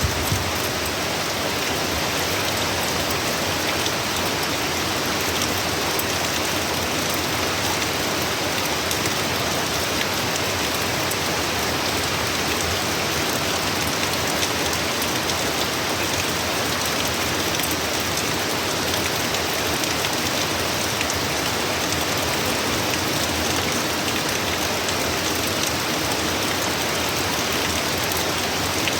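Heavy, steady rain pouring down and pattering on surfaces, a dense even hiss with many small drop ticks.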